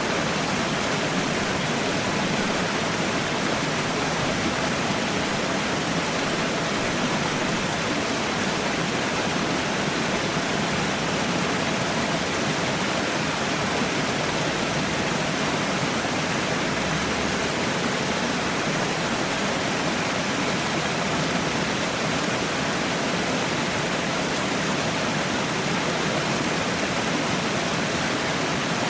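Falling water, a small waterfall or cascade, rushing steadily and without a break.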